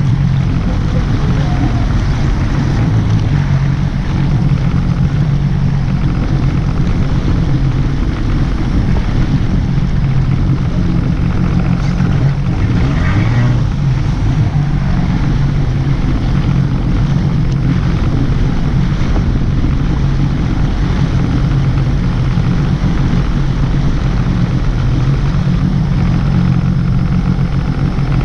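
An engine running steadily at an unchanging speed, a continuous low drone.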